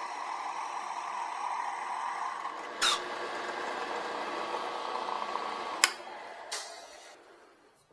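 Wood lathe running with a turning tool cutting the chuck blank down to diameter, a steady cutting noise broken by three sharp knocks. The sound dies away near the end.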